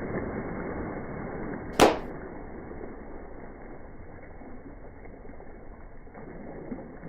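A modified car exhaust letting off one loud, sharp backfire bang about two seconds in, over a low, steady noise.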